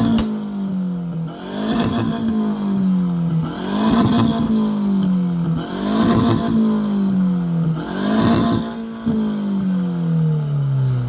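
Car engine with a loud exhaust being revved in repeated blips, about once every two seconds: each rev climbs quickly, then falls away slowly, with a sharp crack from the exhaust near the top of each one.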